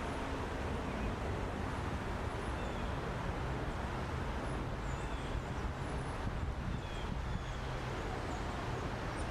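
Steady outdoor rumble with faint, short bird chirps scattered throughout.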